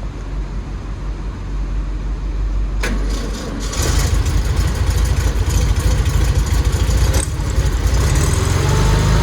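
1958 Volkswagen's air-cooled flat-four engine running just after a cold start, getting louder and fuller about four seconds in. The exhaust comes out of its tailpipes, which kind of whistle.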